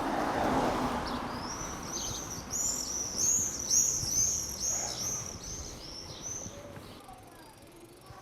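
A songbird singing a quick run of repeated, evenly spaced high notes, about two to three a second, lasting some five seconds. It is heard over a rush of wind noise that dies away after the first second or so.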